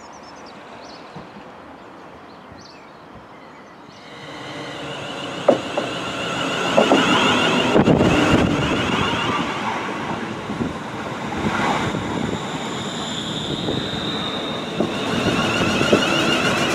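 London Northwestern Railway Class 350 electric multiple unit arriving and running in past the platform: wheels on the rails with clicks over the rail joints and a high whine. It is faint at first and grows louder from about four seconds in.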